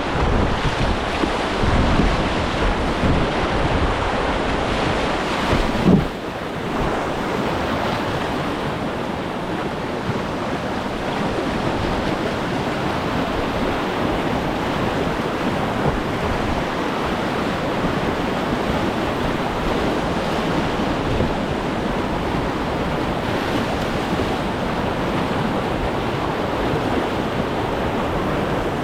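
Steady rush of river whitewater, with wind buffeting the microphone. There is one brief knock about six seconds in.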